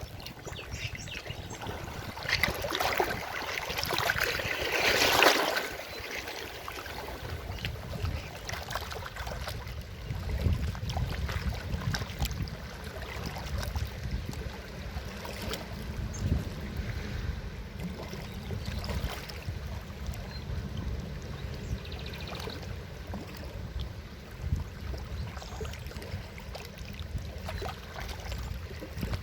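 Forest river water rushing and splashing over a low rumble, louder for a few seconds shortly after the start.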